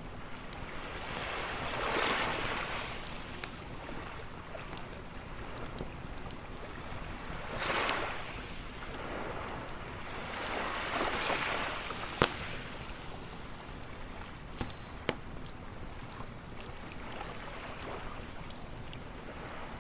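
Ocean waves washing in on a beach, swelling three times, over a campfire crackling with scattered sharp pops; the loudest pop comes about twelve seconds in.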